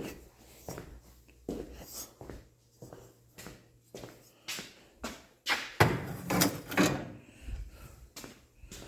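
Irregular knocks and clatter of objects being shifted and set down while clearing clutter, with a louder cluster of knocks about six to seven seconds in.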